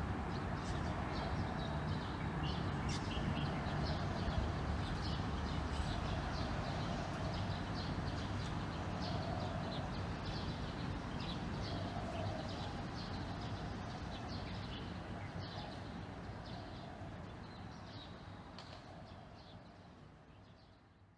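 Birds in the treetops chirping, many short quick calls overlapping without pause, over a steady low background rumble. The sound fades out near the end.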